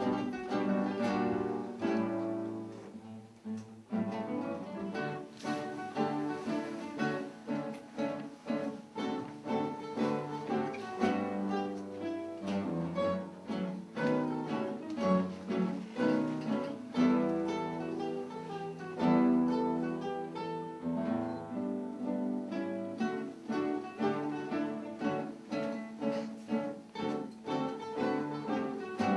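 Instrumental ensemble music led by plucked guitar, played as a steady stream of quick notes.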